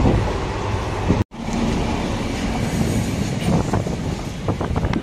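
Railway coaches rolling on the track: a steady low rumble with wheel clatter and a few sharp clicks near the end. A brief dropout a bit over a second in.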